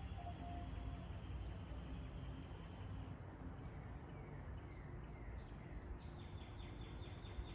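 Birds chirping over a steady low background rumble: short high chirps here and there, then a quick run of repeated chirps near the end.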